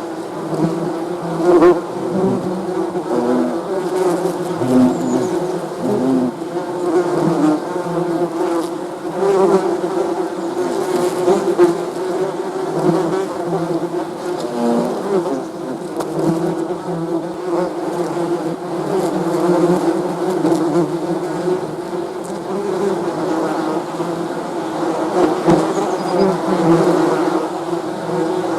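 Many bees buzzing together in a dense, continuous drone, individual buzzes swelling and fading in loudness over the steady hum.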